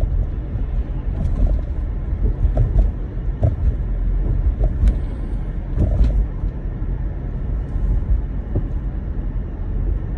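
Car driving on a snow-covered road, heard from inside the cabin: a steady low rumble of tyres and engine, with scattered small knocks.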